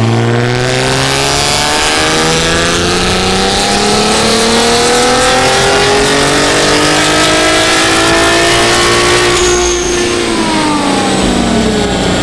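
Twin-turbo VR30 3.0 V6 with Z1 VRX70B turbos making a full-throttle dyno pull: the engine note climbs steadily in pitch for about nine seconds, then the revs fall away as the throttle closes.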